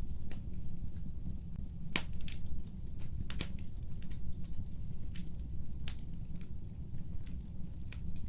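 Fireplace fire crackling: scattered sharp pops and snaps over a steady low rumble of flames, with three louder pops about two, three and a half and six seconds in.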